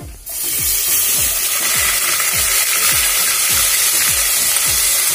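Onion paste dropped into hot oil and fried whole spices in a pressure cooker, starting a loud, steady sizzle suddenly a moment in.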